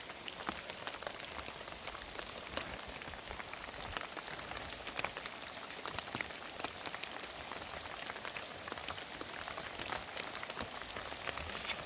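Heavy rain falling steadily, a constant hiss with many sharp ticks of single drops striking close by.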